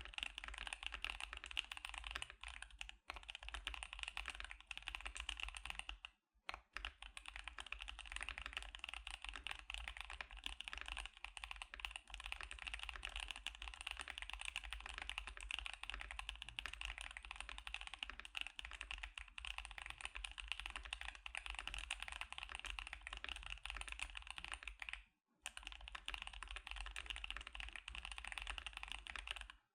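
Continuous fast typing on a KBD75 custom mechanical keyboard fitted with Gazzew Boba U4T tactile switches: a dense clatter of keystrokes, with short pauses about 6 s in and about 25 s in.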